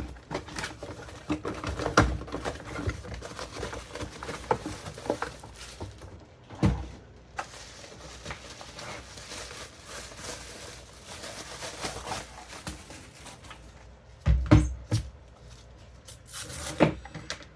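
A PC power supply and its cables being handled: scattered taps, knocks and rustling, with louder thumps about two seconds in, near the middle, and twice near the end.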